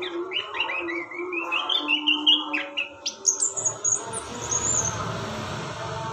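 A songbird singing: a quick run of chirps climbing in pitch for about three seconds, then a string of higher, sharper notes.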